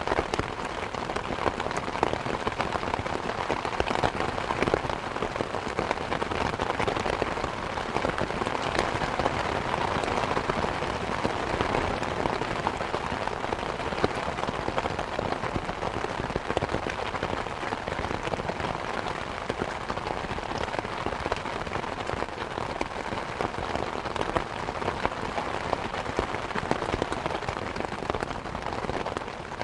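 Steady rain pattering, mixed with a wood fire crackling in a fireplace: a dense scatter of small, sharp pops and snaps over the even rush of the rain.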